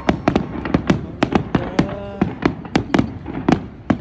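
Aerial fireworks going off in a rapid, irregular volley of sharp bangs, several a second. A brief pitched sound rises slightly about halfway through.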